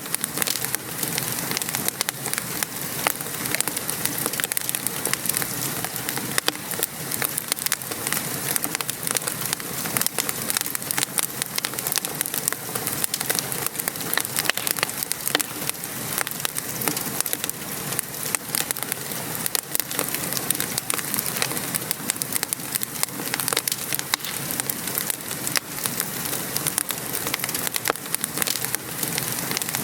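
Wood fire crackling with many small sharp pops over the steady hiss of gentle rain falling.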